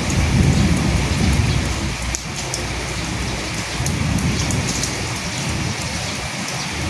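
Steady rain falling, with scattered drops ticking, and low rolling thunder rumbling in the first two seconds and again more faintly around the middle.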